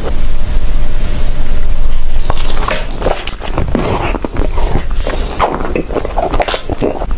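Close-up chewing of a full mouthful of food with the lips closed, as a run of irregular wet mouth noises.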